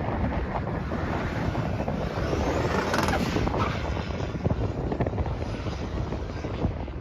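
Turbocharged Ford 2.3-litre four-cylinder in a 1963 Volvo running hard under load, with heavy wind buffeting on the microphone.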